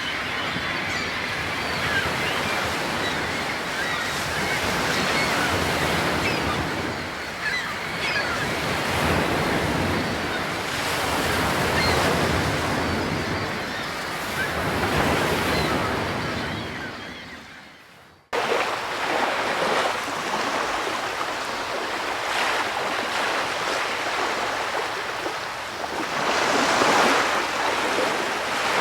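Ocean surf: a steady rush of waves washing in and out that fades down about 17 seconds in, then cuts back in suddenly, as if the recording were looped or edited.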